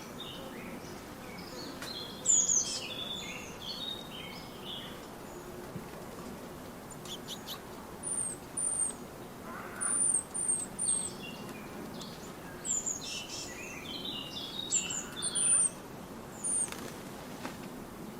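Small songbirds singing and calling: a burst of quick warbling song a couple of seconds in and again about 13 s in, with runs of thin, very high, downward-sliding call notes in between, over a steady low outdoor background.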